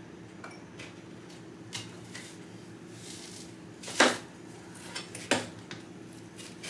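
Kitchen utensils and dishes clinking and knocking as food is handled, with two sharper knocks about four and five seconds in.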